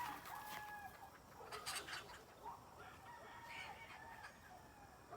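Free-range chickens clucking softly with short, faint calls as they forage.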